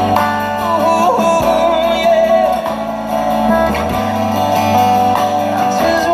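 Live band music with guitars and a bass line, and a voice singing.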